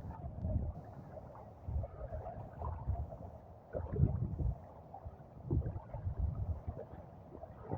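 Wind buffeting the microphone in irregular low rumbling gusts, with faint scattered background sounds.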